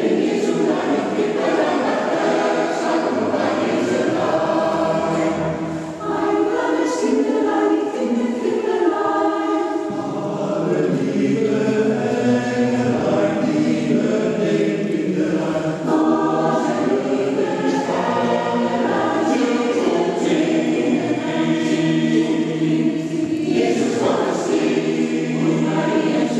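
A choir singing a Christmas piece in sustained phrases, with brief breaths between phrases.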